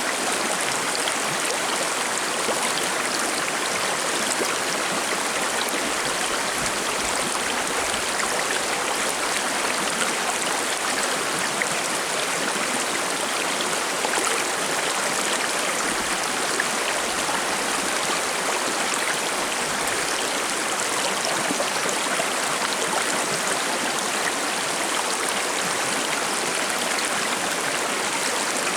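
A forest stream flowing over rocks, a steady babbling rush of water.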